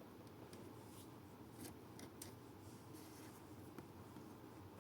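Near silence with faint scratching and a few small ticks of a needle and thread being worked by hand through a suitcase's zipper tape.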